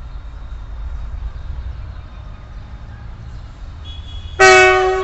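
Indian Railways locomotive horn blaring suddenly near the end, loud and sustained, over a steady low rumble.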